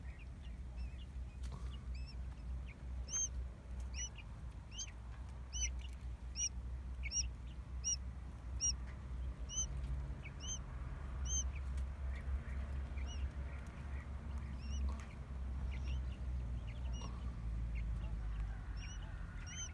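Quail chick peeping: a run of short high chirps a little faster than one a second, thinning out after about ten seconds and returning briefly near the end, over a steady low rumble.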